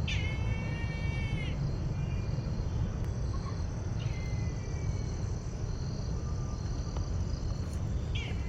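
An unidentified bird calls three times, near the start, about four seconds in and near the end. Each call is one drawn-out note about a second and a half long that drops quickly at its onset and then holds steady, over a steady low rumble.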